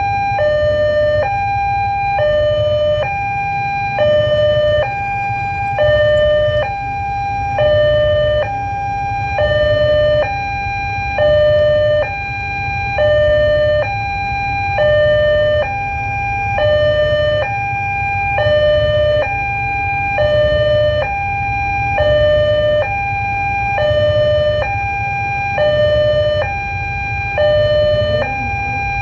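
Railway level-crossing warning alarm at a Siemens-equipped crossing, the newly replaced alarm unit, sounding a two-tone hi-lo signal: a higher and a lower tone alternate about a second each, repeating steadily. A steady low rumble runs underneath.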